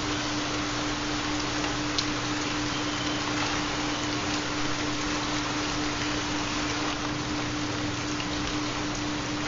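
Steady rain recording, an even hiss of falling rain with the odd faint drop tick. Under it runs a steady low tone from the theta binaural beats.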